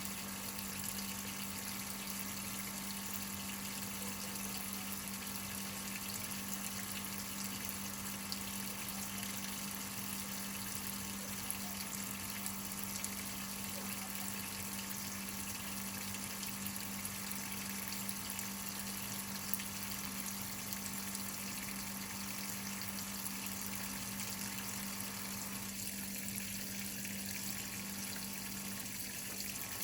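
Whirlpool top-load washing machine filling with water: a steady rush of running water with a constant low hum.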